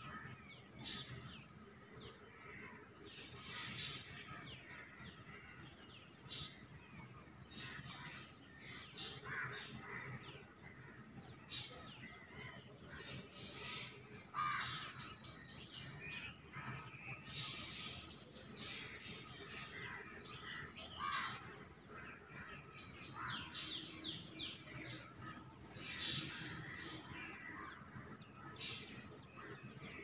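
Many birds chirping and calling, a busy chatter of short high chirps that grows denser about halfway through, over a steady high-pitched drone.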